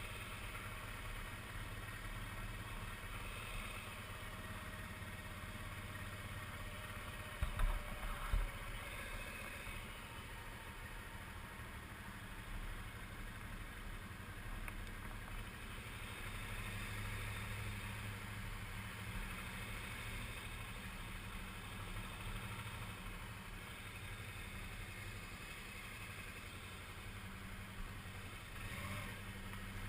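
Suzuki V-Strom 650's V-twin engine running steadily at low speed. Two short thumps come about eight seconds in.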